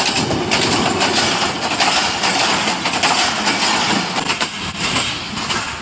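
Train coaches rolling past at close range: a loud, steady rush of wheels on rail with rapid clattering, easing slightly near the end.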